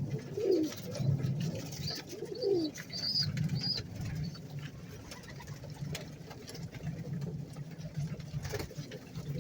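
Domestic pigeons cooing in a loft: a steady low cooing with two falling coos in the first three seconds and a few short high chirps about two to four seconds in, over scattered faint clicks.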